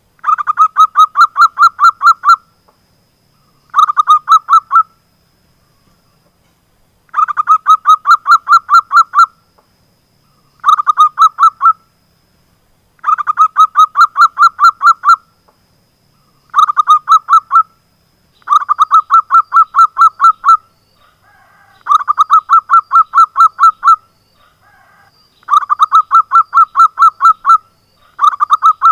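Zebra dove (perkutut) calling: repeated bursts of quick staccato notes, each burst one to two seconds long, with short pauses between bursts.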